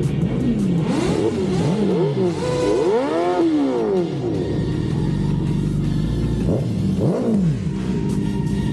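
Motorcycle engine revved in several quick throttle blips, pitch rising and falling each time. It then settles to a steadier run, with one more rev about seven seconds in.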